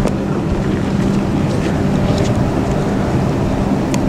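Interior running noise of a Stadler FLIRT 4 electric multiple unit (SŽ class 510) under way: a steady rumble with a constant low hum, and a few faint clicks.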